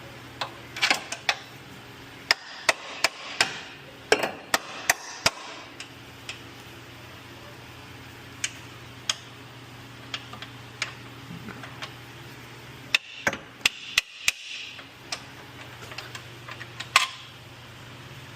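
Irregular sharp metal taps and clanks from tools and parts as a new lower control arm is worked into its mount, coming in two clusters with a single louder knock near the end, over a low steady hum.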